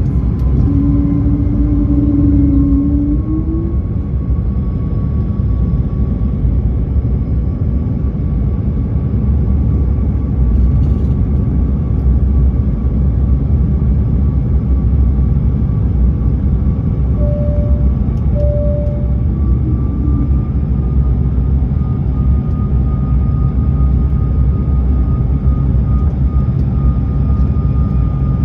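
Steady low rumble of an Airbus A220-300 cabin, with a faint engine whine that rises slightly about twenty seconds in. Two short tones are heard about seventeen seconds in.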